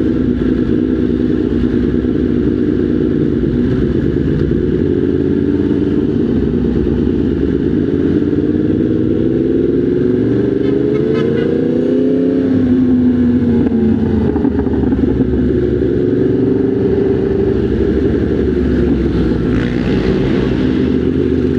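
Motorcycle engine running under way, mostly steady; the revs climb for a few seconds about halfway through, then drop.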